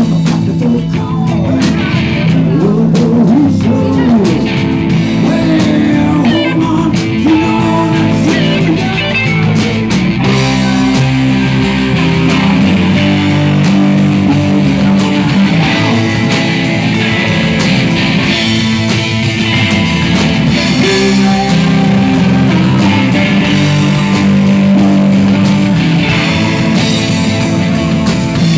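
Live rock band playing a moody, mid-tempo song led by guitar, loud and steady throughout.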